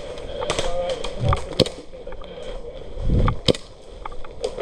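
Airsoft gun firing single shots: a few sharp cracks, the loudest about a second and a half in and again at about three and a half seconds, over gear handling and two low thumps.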